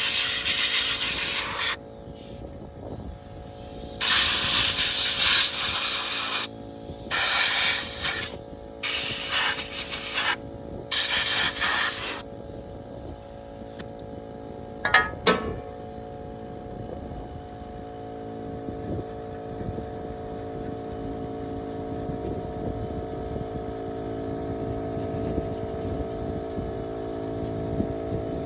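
Repeated short blasts of hissing spray, five or six of them over about twelve seconds, over a steady machine hum with several fixed tones. A couple of sharp clicks come about halfway, then the hum goes on alone.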